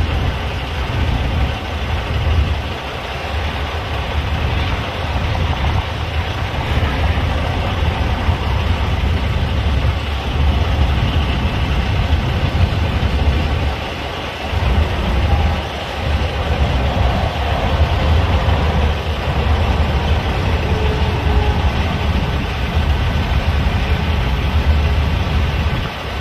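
Freight cars of a long manifest train rolling past: a loud, steady rumble of steel wheels on the rails, dipping briefly a few times.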